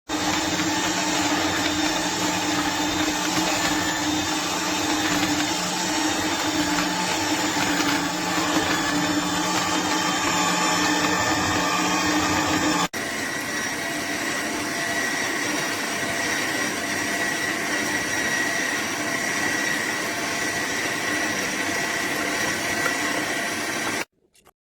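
AMZCHEF electric juicer's motor running steadily, heard in two spliced takes with an abrupt change about halfway and a sudden stop near the end.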